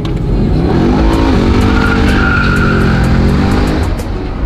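Mercedes-Benz C63 AMG's V8, heard from inside the cabin, accelerating hard. The engine note climbs, drops at an upshift about a second and a half in, then holds loud and high before easing off near the end.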